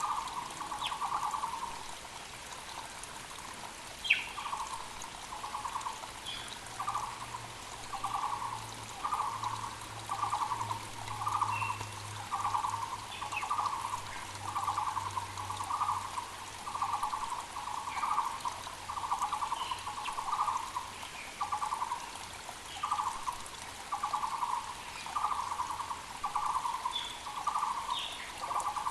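Muller's barbet (Taiwan barbet) calling on and on: a rapid purring trill repeated about once a second. Under it is the steady hiss of a mountain creek, with brief chirps from smaller birds.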